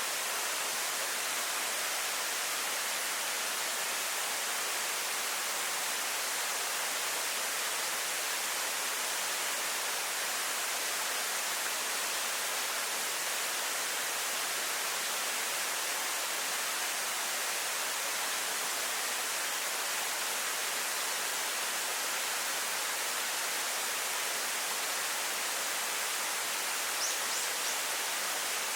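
Waterfall pouring steadily: an even, unchanging rush of falling water, strongest in the hiss range.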